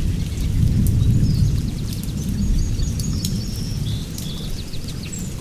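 Low rumble of thunder that swells about a second in and slowly fades, with birds chirping and calling in short high notes and scattered raindrops.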